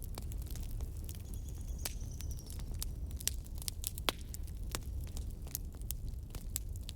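Wood fire crackling, with irregular sharp pops over a steady low rumble; a faint high whistle sounds briefly about a second and a half in.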